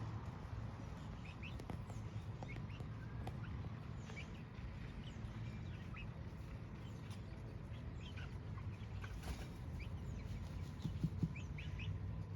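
Chickens clucking softly, with many short high chirps scattered throughout over a steady low hum.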